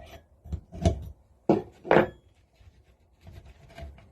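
Spanner and metal parts knocking and scraping as nuts and studs are worked off a cast-iron engine casting, with a few knocks, the two loudest about a second and a half and two seconds in.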